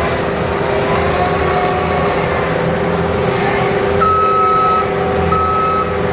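Cat 299D compact track loader's diesel engine running steadily while it grades with a laser-controlled blade. Near the end, its backup alarm sounds two beeps as it reverses.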